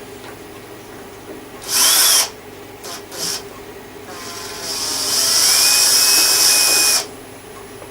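Electric power drill run in short trigger bursts: one half-second burst, two quick blips, then a longer run of about three seconds whose whine rises as the motor spins up and then holds steady before stopping.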